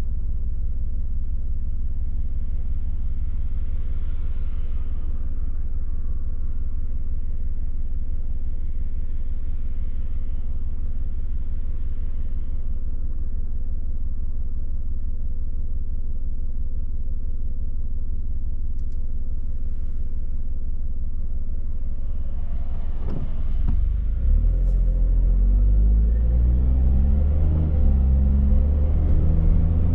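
A car's engine running with a steady low rumble, as if held at a standstill, while other traffic passes softly. About 23 seconds in, the car pulls away: the engine note gets louder and climbs in steps as it accelerates through the gears.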